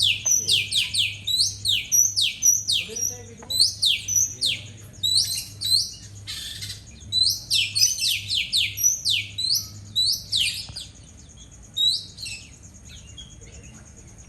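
Oriental magpie-robin singing: rapid runs of sharp, downward-sliding whistled notes, thinning to a few scattered notes in the last few seconds.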